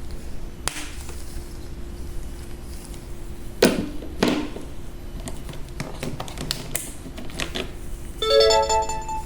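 Scattered sharp clicks and taps, then a short electronic chime of several tones together, like a phone notification, about eight seconds in, over a faint steady hum.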